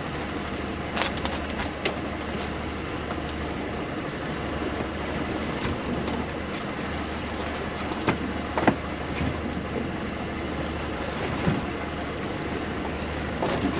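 Steady low hum and wash of noise aboard a small fishing boat while a net is hauled, with scattered knocks and clatters, two sharp ones about eight seconds in.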